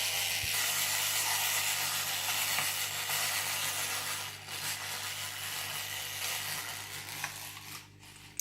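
A fishing reel's ratchet clicking continuously for about eight seconds, easing slightly partway through, then stopping suddenly with a click.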